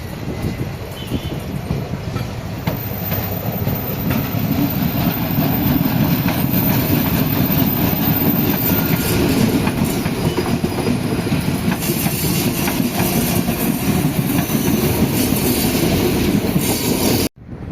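Recife Metro train running along the track, wheels clattering on the rails, growing louder over the first few seconds and then holding steady, with a thin high whine in the first half. It cuts off suddenly near the end.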